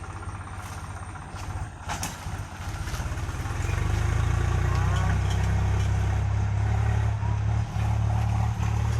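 A vehicle engine running with a steady low rumble, growing louder about three to four seconds in and then holding steady. A sharp knock about two seconds in.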